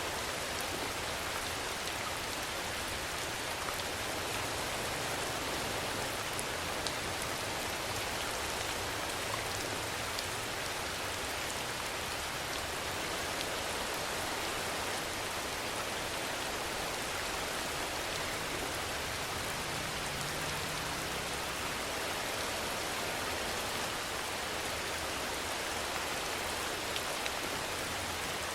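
Steady rainfall: an even hiss of rain on surfaces, with an occasional single drop ticking out.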